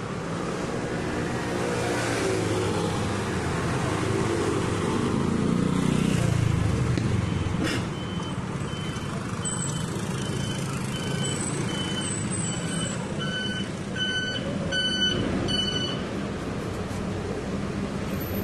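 City bus engine running, heard from inside the bus, rising in pitch over the first six seconds as the bus pulls away. A sharp click comes at about eight seconds, then a steady run of high electronic beeps, a little over one a second, from about nine seconds in.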